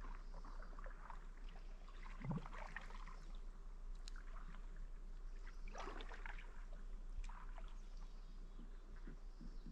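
Kayak paddle strokes in the water, a splash every couple of seconds, with a soft knock about two seconds in.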